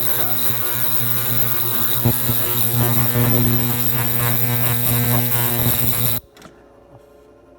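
Ultrasonic transducers on a water-filled tube running with a loud, steady buzz and hiss, which cut off suddenly about six seconds in as the transducers are switched off.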